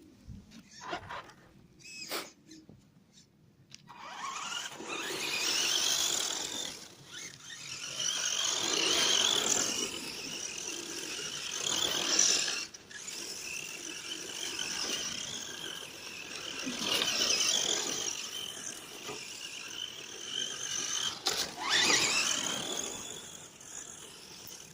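Himoto 1:10 scale RC short course truck's motor whining, rising and falling in pitch again and again as the truck speeds up and slows down. It starts about four seconds in, after a few light clicks.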